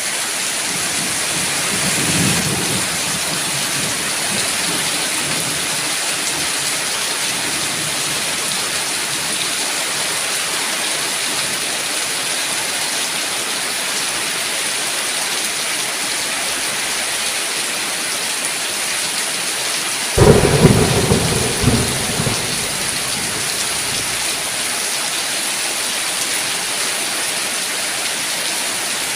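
Steady rain pattering. A faint rumble of thunder comes about two seconds in, and a sudden loud thunderclap about twenty seconds in rolls on for about two seconds.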